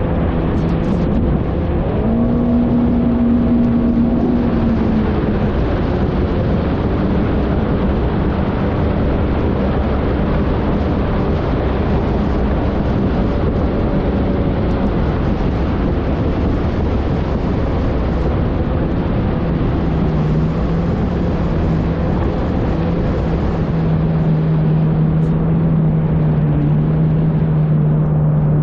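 Yamaha jet ski engine running under way, with wind and water noise, its pitch climbing briefly about two seconds in and then holding steady.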